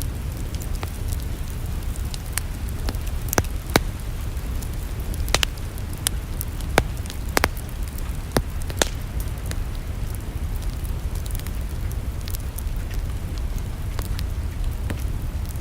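Wood fire in a fireplace crackling: sharp pops come at irregular intervals over a steady low rumble.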